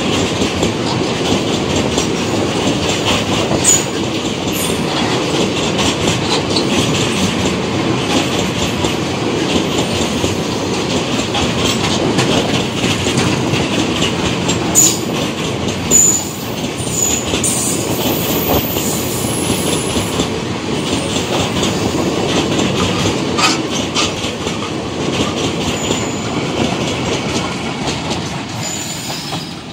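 Freight train of tank wagons rolling past at close range: a steady rumble and clickety-clack of steel wheels over the rails, with a few short high wheel squeals in the middle. The sound drops away near the end as the brake van at the tail goes by.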